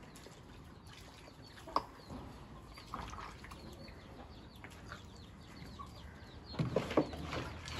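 Birds chirping in the background, many short high calls, with a single sharp knock about two seconds in and a brief burst of knocking and clatter near the end.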